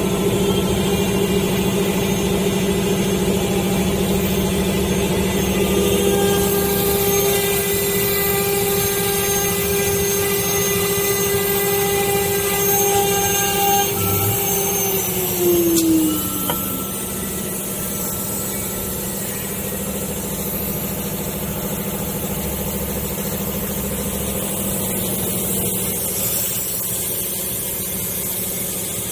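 STM6090C CNC router running, a steady high spindle whine over a lower motor hum with shifting higher tones. About halfway through, the spindle whine falls in pitch and fades as the spindle spins down, while the hum carries on.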